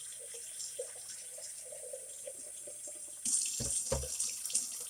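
Water running from a faucet into a sink, the flow growing louder a little past three seconds in, with two dull thumps just after.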